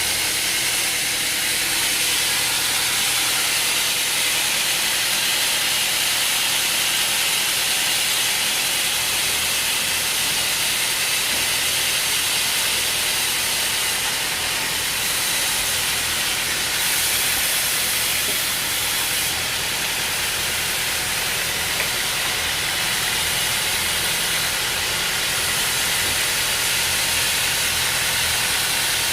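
Steady machinery noise: an even, unbroken hiss with a faint low hum beneath.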